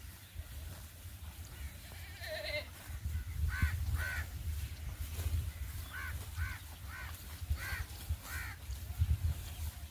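A bird calling in a series of short harsh caws, two a little before halfway and five more in quick succession after, over a steady low rumble of wind on the microphone.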